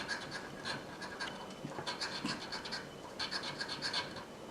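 Scratch-off lottery ticket being scratched: quick scratching strokes in short runs, with a brief pause a little past halfway.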